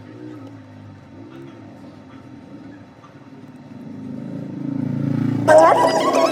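A low, wavering rumble that grows louder, then electronic background music cuts in suddenly near the end.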